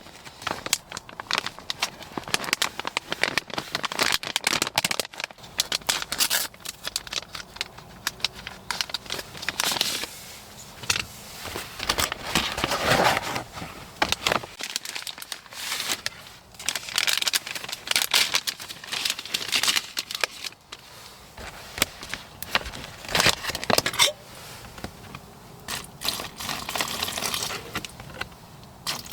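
Plastic and foil packaging being handled, crinkled and torn open in irregular bursts, with scattered clicks and rustles.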